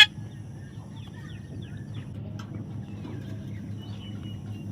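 Faint scattered bird chirps over a steady low hum, with a short thin whistle about four seconds in.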